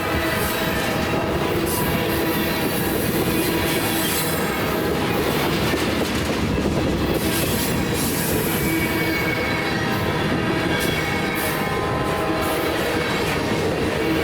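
A train's cars rolling past at close range, steady and loud, the wheels on the rails giving off steady squealing tones over the rumble.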